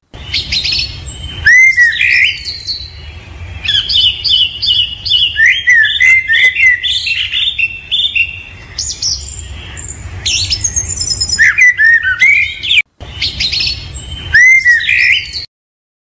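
Birds chirping and calling in quick, overlapping short notes and trills over a low background rumble. The audio drops out for a moment near the end, resumes with the same calls heard at the start, and then stops.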